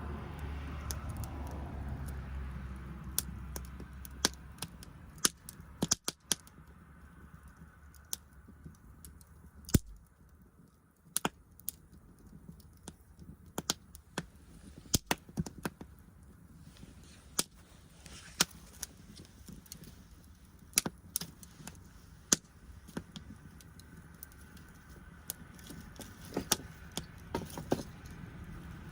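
Wood fire crackling, with sharp pops coming at irregular intervals. A low rumble sits underneath at the start and again near the end.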